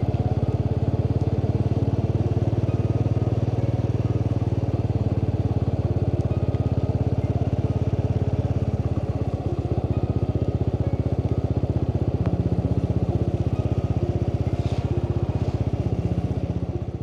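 Motorbike engine running steadily at an even pace, a low, fast-pulsing drone.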